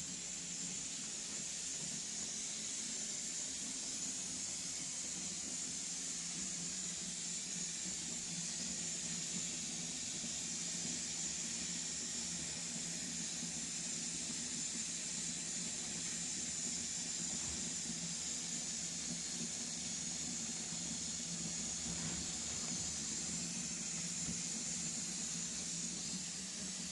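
Steady hiss with a low hum beneath it, unchanging throughout.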